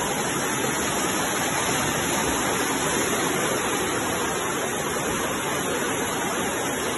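Floodwater rushing down a street: a steady, even rush of water with no break.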